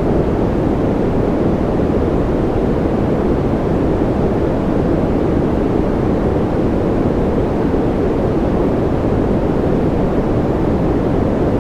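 Steady, unbroken rain-like noise with a deep, muffled hiss and no separate drops or events: a constant rain white-noise ambience.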